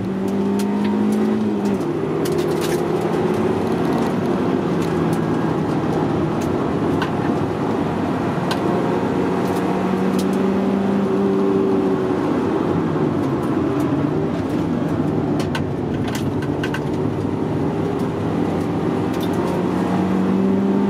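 Honda car's engine pulling hard on a race track, heard from inside the cabin. Its note drops at an upshift about two seconds in, then wanders up and down and climbs again near the end. A few sharp clicks come and go.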